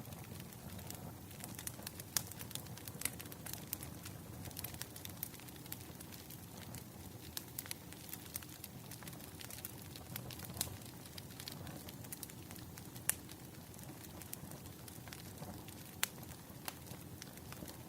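Firewood burning and crackling, with irregular sharp pops and snaps over a steady low rumble.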